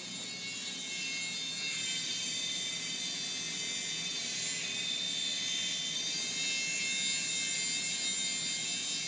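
Small electric toy remote-control helicopter in flight, its motor and rotor giving a steady high-pitched whine and whir that drifts slightly in pitch.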